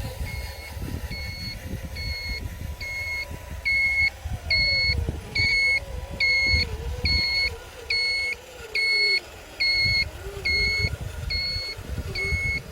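RC dump truck's sound module giving a reversing alarm, an evenly repeating electronic beep about twice a second, louder from about four seconds in. Under it run a low rumble and a wavering whine.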